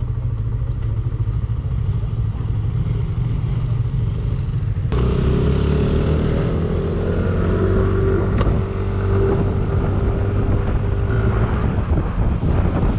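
Yamaha Aerox 155 scooter's single-cylinder engine running while riding. About five seconds in the sound suddenly gets louder and a steady whine joins for several seconds before easing off.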